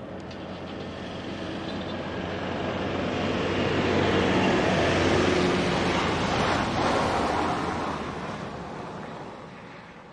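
A vehicle going past at speed: engine hum and road noise swell to a peak about midway and then fade away.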